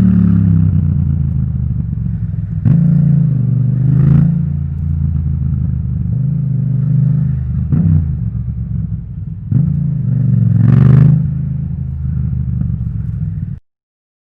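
Yamaha MT-07 parallel-twin engine through an Akrapovic titanium exhaust, riding along with the revs rising and falling and several sharp throttle openings. The sound cuts off suddenly near the end into silence.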